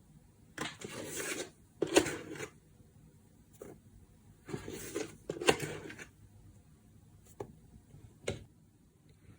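Spoonfuls of powdered baby milk being scooped and tipped into a bowl of whipped egg yolk: short scraping rustles of the powder, with light clicks and taps of the spoon.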